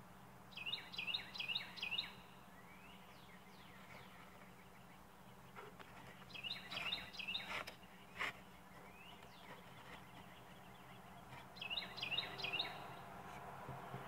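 A songbird singing three short phrases, each a quick run of repeated down-slurred whistled notes, with pauses of several seconds between them. A steady low hum runs underneath.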